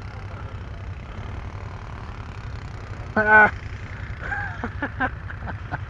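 An engine running steadily with a low, even rumble. A short, loud call from a voice cuts in about three seconds in.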